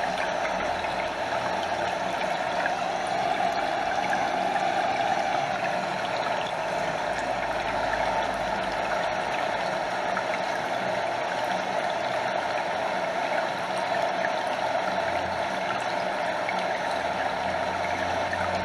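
A stream flowing in a steady, unbroken rush of water, with water lapping close by and a small waterfall.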